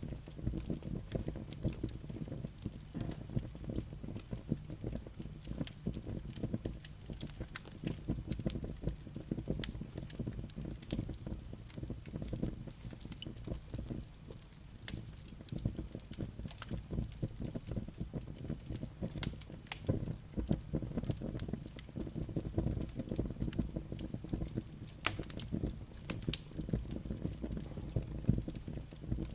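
Wood fire burning in a fireplace: a dense, steady low crackle of flames on the logs, with frequent sharp pops and snaps from the embers.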